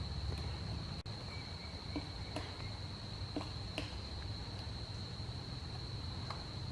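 Steady, high-pitched insect drone holding one pitch throughout, with a few faint, scattered ticks.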